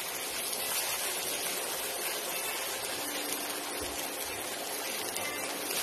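Sliced onions and tomatoes sizzling steadily in hot oil in a frying pan as they are stirred with a silicone spatula, cooking down for a curry base. A faint steady hum joins about halfway through.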